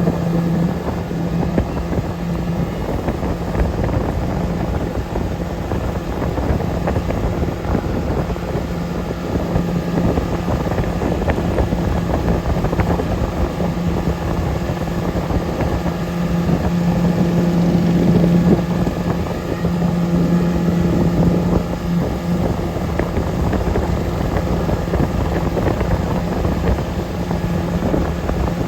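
Motorboat engine running steadily at speed, a constant drone over the rush of water and wind buffeting the microphone, swelling slightly about two-thirds of the way through.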